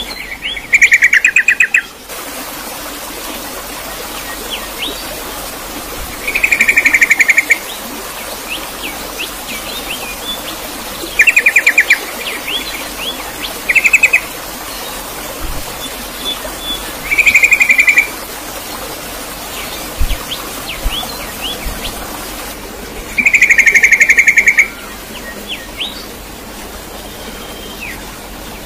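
Bird chirping: a loud rapid trill of about a second repeats every few seconds, six times, with quick short chirps in between, over a steady hiss.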